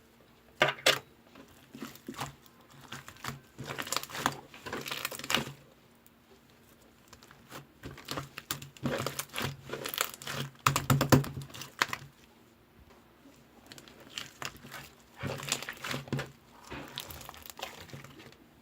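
Slime being squished, pressed and stretched by hand, giving crackly, popping clicks in several bursts with short pauses between them.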